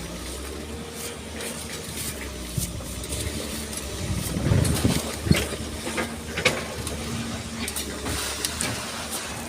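Excavator engine running steadily, with a louder swell a little before the middle and several sharp knocks from the bucket working the sand.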